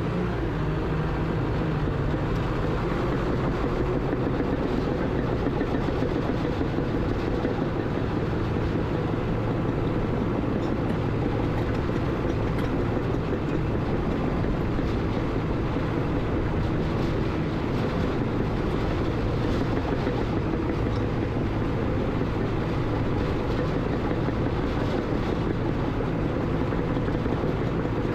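Bulldozer's diesel engine running steadily, a loud, even machine noise without pauses.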